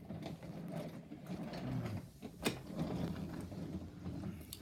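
Toy train running along its track, a steady small whirring, rattling clatter, with a sharp click about two and a half seconds in.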